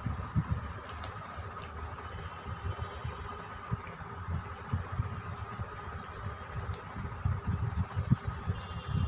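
A person chewing bread and omelette: irregular soft, low thuds of chewing and mouth sounds, over a steady background hum.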